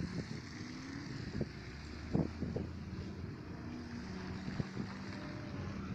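A car engine idling steadily, with a few short knocks.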